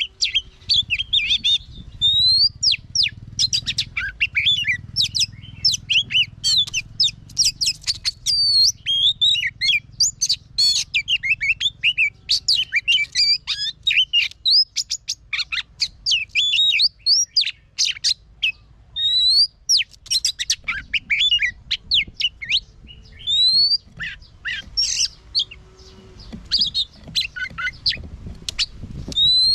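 Oriental magpie-robin singing a long, varied song of rapid whistles, chirps and rising sweeps, with a few short pauses.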